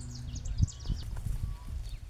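Small birds chirping in quick high notes, mostly in the first second, over a low rumble, with several dull low thumps; the loudest comes about half a second in.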